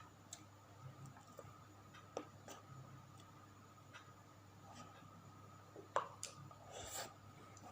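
Quiet close-up eating sounds while chewing tempeh: scattered small clicks and mouth noises, with a sharper click about six seconds in and a short crunchy rustle just after, over a faint steady hum.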